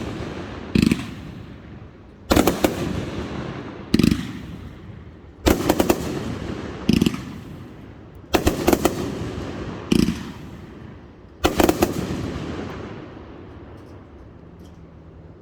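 Aerial fireworks going off in repeated volleys: each is a quick string of sharp bangs, followed about a second and a half later by a single bang, about every three seconds. The last volley, about twelve seconds in, dies away.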